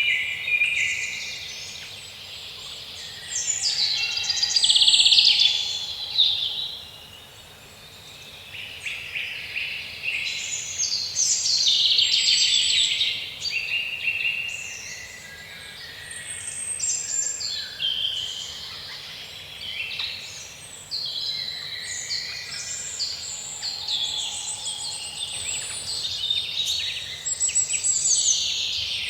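Several songbirds singing at once in woodland, a dense layered chorus of chirps, whistles and trills that swells and fades every few seconds.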